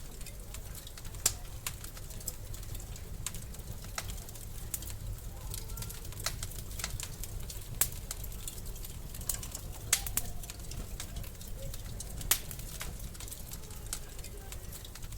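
Wood fire in a fireplace crackling, with scattered sharp pops, four of them louder than the rest, over a low steady rumble of the flames.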